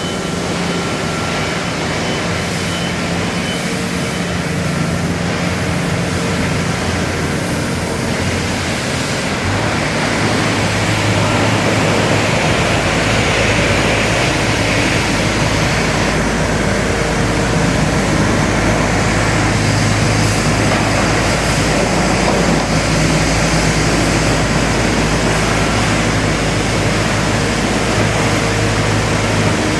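Bobcat T550 tracked skid steer's diesel engine running steadily, growing louder and deeper from about ten seconds in.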